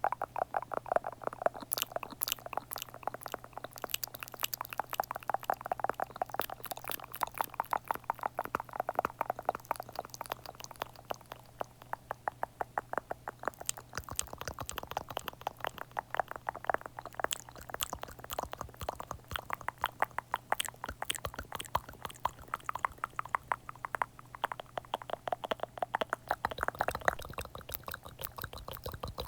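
ASMR mouth sounds: rapid, soft wet clicks and smacks close to the microphone, many a second.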